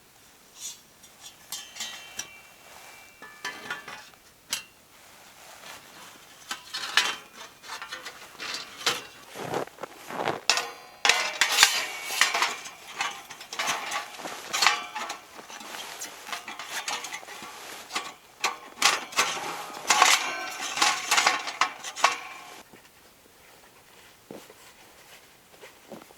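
Metal cookware and utensils clinking, scraping and knocking against each other in irregular clusters, with brief metallic ringing. The handling is busiest through the middle.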